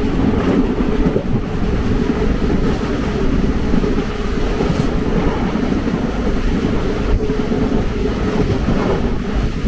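Indian Railways passenger train running at speed, heard from aboard: a steady rumble of the wheels on the track.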